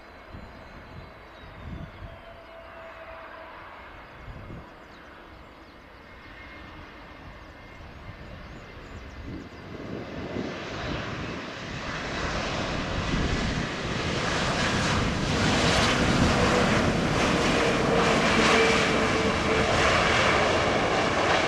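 Airbus A321 jet engines, a rushing roar that grows louder from about halfway through and stays loud to the end, with wind buffeting the microphone.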